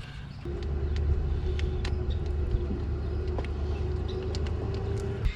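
A motor vehicle's engine running steadily nearby: a low rumble with a held hum that sets in about half a second in and stops near the end, with a few light clicks over it.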